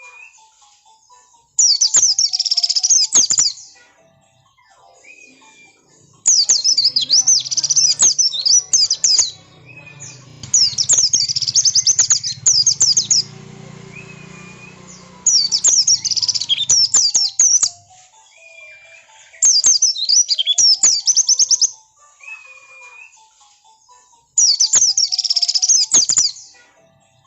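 White-eye (pleci) song, the insistent 'ngotot' lure song: six loud bursts of rapid, high twittering, each about two seconds long, with soft short chirps between bursts.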